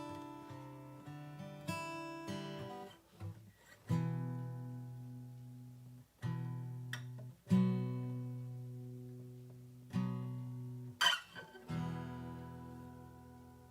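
Acoustic guitar music: slow strummed chords, each struck and left to ring out and fade before the next, about every two seconds.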